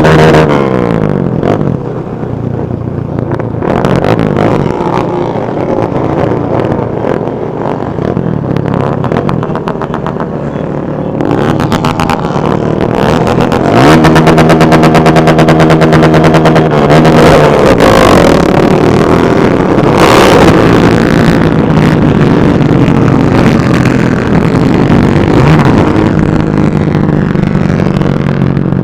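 Motorcycle engines running and revving, their pitch rising and falling; about halfway through, one engine holds a steady note for a few seconds.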